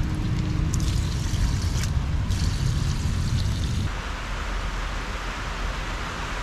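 A motor running with a steady low rumble. About four seconds in it cuts off abruptly, leaving a steady hiss.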